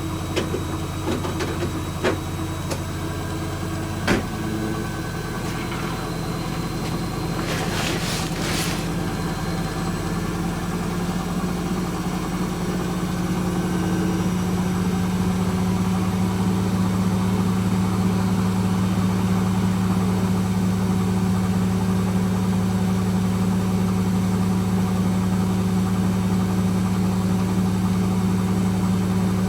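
Hoover H-Wash 300 Plus washing machine running during its rinse and spin cycle. A few light clicks come in the first four seconds and a brief hiss about eight seconds in, then a steady motor hum grows louder over several seconds and holds steady.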